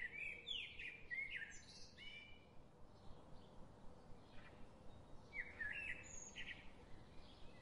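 Birds chirping and singing in short, quick up-and-down calls: a cluster in the first two seconds and another about five and a half seconds in, over faint background hiss.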